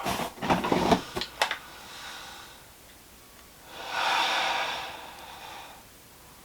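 A person lets out a long, breathy sigh about four seconds in. It follows a few short clicks and knocks in the first second and a half.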